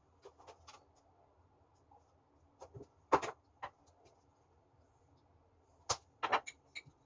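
Scattered clicks and knocks of kitchen utensils during food preparation: a few light ticks, then louder knocks about three seconds in, and a quick run of sharp clicks near the end.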